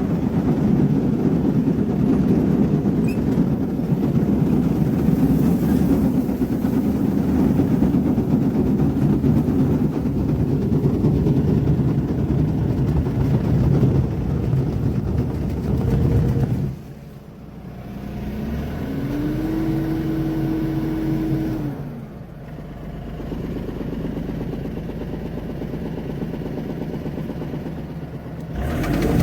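Diesel engine of a Truxor amphibious tool carrier running hard. About two-thirds through it drops to a lower, idling level, with a brief whine that rises, holds and falls. It picks up again near the end.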